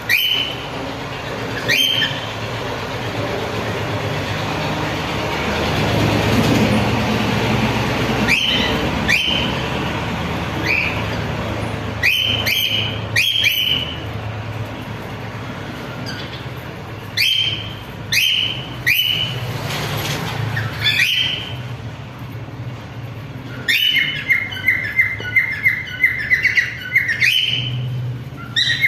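Cockatiel calling: short upward-sliding chirps, scattered a second or more apart, then near the end a fast run of repeated chirps. A steady low background hum runs underneath.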